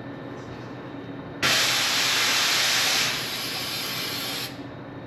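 Compressed air hissing from a shop air hose. The hiss starts sharply about a second and a half in, eases slightly halfway through and cuts off suddenly after about three seconds.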